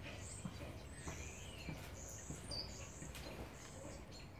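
Small birds chirping faintly, a string of short high chirps and gliding notes, over a low steady background hum. A few faint soft taps fall about half a second apart in the first half.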